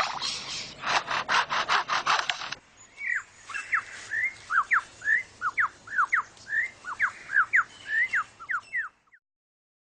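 Superb lyrebird mimicking foresters' chainsaws, a rapid series of rasping, sawing strokes. About two and a half seconds in it switches to a quick run of sharp whistled notes sweeping up and down, which stops about nine seconds in.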